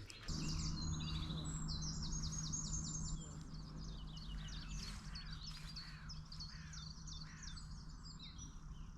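Birds chirping and singing in quick, high calls, busiest in the first few seconds, over a low steady hum.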